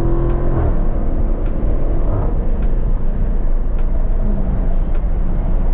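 Dodge Scat Pack's 6.4-litre HEMI V8 pulling with a rising note that cuts off under a second in, followed by a steady low rumble of engine and road as the car cruises.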